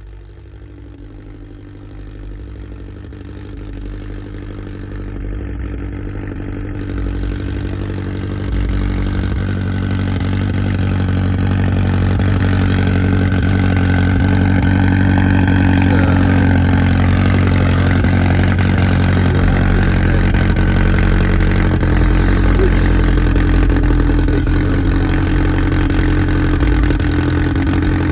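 A vehicle engine idling steadily, growing louder over the first dozen seconds and then holding level.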